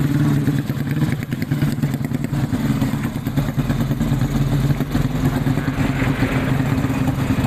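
Racing underbone (bebek) motorcycle engine running steadily at a held fast idle, without revving up, its exhaust pulsing rapidly.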